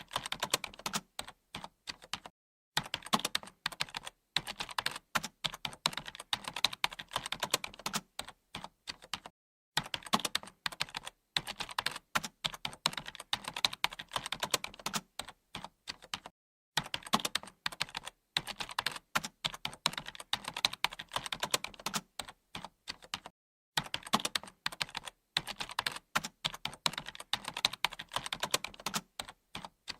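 Computer keyboard being typed on: rapid key clicks in bursts of several seconds, each broken off by a brief pause.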